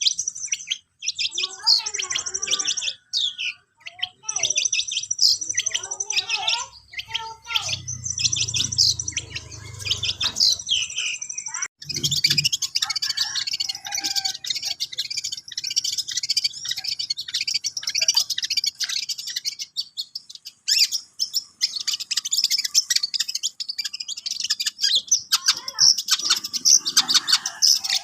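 Long-tailed shrike (cendet) singing a continuous, varied chattering song of rapid high chirps and trills, a young bird still practising its song. The song grows denser about halfway through.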